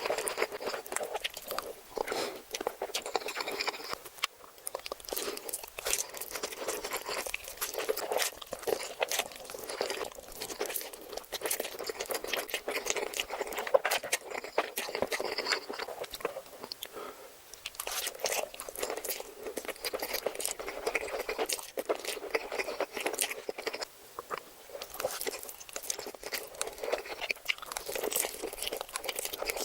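Close-miked eating sounds: steady chewing and crunching with many quick, irregular mouth clicks and crackles.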